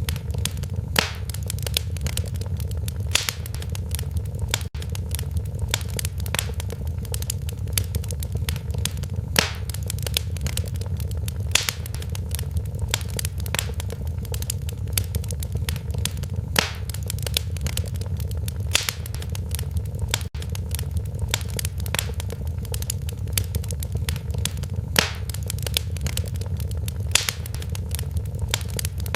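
Wood fire in a fireplace crackling steadily, with dense small crackles, a sharper pop every two seconds or so, and a low steady rumble of the flames underneath.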